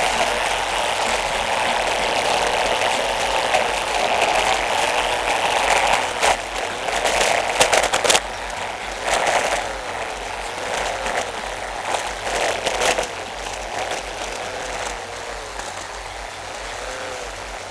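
Car engine heard from inside the car, its pitch rising and falling with acceleration and lifting off through the bends, over a steady rush of road and wind noise. A few sharp louder bursts of noise come in the middle.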